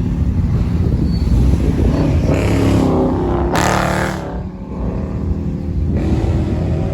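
Car engine running and revving as the car pulls away, its pitch climbing from about two seconds in to a loud peak near four seconds, then easing off.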